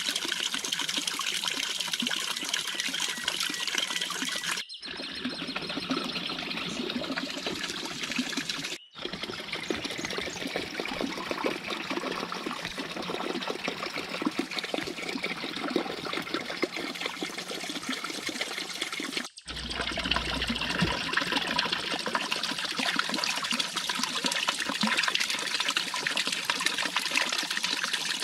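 Water trickling and splashing steadily, broken by three brief cuts.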